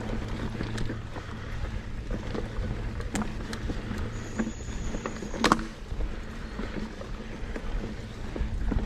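Mountain bike rolling along a dirt trail: steady wind and tyre rumble with the bike rattling and several sharp knocks over rough ground, the loudest about five and a half seconds in. A brief high-pitched squeal sounds for about a second just after four seconds in.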